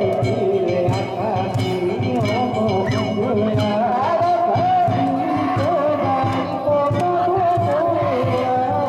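Danjiri float festival music: a rapid, steady drumbeat with small gongs clanging over it and a wavering high melody line.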